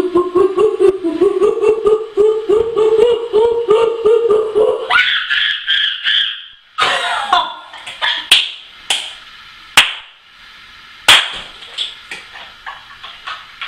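A boy imitating a monkey with his voice: a rapid run of short hoots for about five seconds, breaking into a high-pitched screech. This is followed by several sharp smacks and some laughter.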